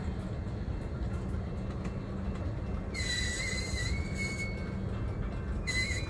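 Freight cars of a BNSF mixed freight train, tank cars and covered hoppers, rolling past with a steady low rumble. A high metallic wheel squeal sets in about three seconds in and lasts over a second, then comes back briefly near the end.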